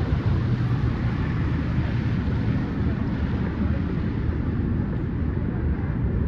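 Street ambience in Midtown Manhattan: a steady low rumble of traffic, with voices faintly mixed in.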